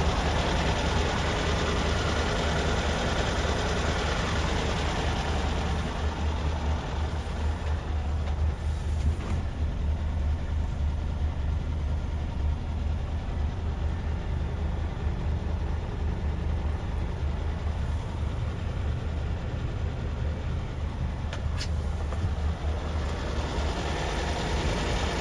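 Scania P360 truck's diesel engine running steadily with a low, even drone.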